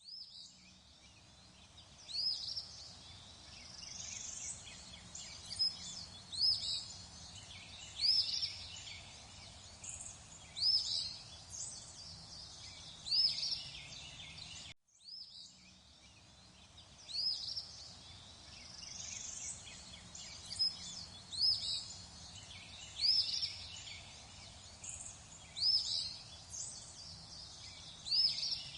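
Birds chirping and calling in short, sharp, sweeping notes every second or so over a faint steady background hiss. The same stretch of birdsong loops: it drops out briefly about halfway through and then repeats identically.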